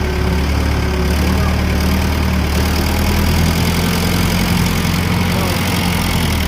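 Heavy engine running steadily at idle, with a deep, even hum.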